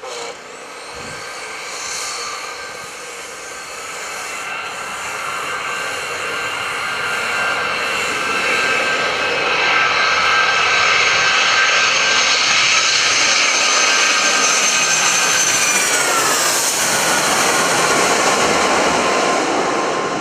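Boeing 757-200 twin-engine jet growing louder as it approaches, its engine whine dropping sharply in pitch about three-quarters of the way through as it passes by.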